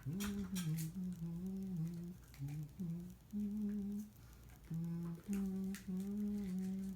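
A person humming a slow tune, holding notes that step up and down, with a few short clicks in the first second.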